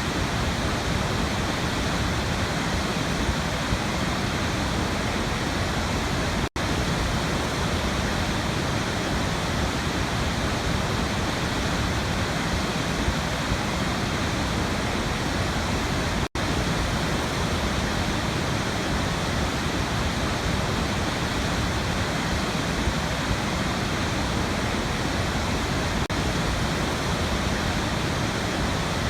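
Waterfall: a steady, unbroken rush of falling water. It cuts out for an instant twice, about a quarter and just over halfway through.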